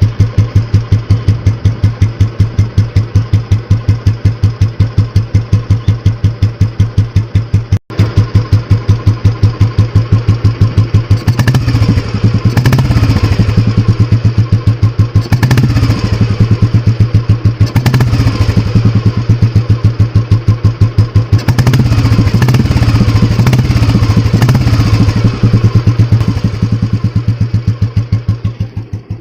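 A restored 1996 Royal Enfield Bullet 350's single-cylinder cast-iron engine running through a non-stock exhaust, with a steady idle beat of about four thumps a second. Through the middle it is blipped and revved several times, then it settles back to idle near the end.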